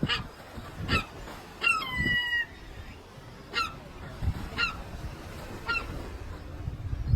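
A seagull calling: a series of short, pitched calls about a second apart, with a quick run of notes and one longer, drawn-out call about two seconds in.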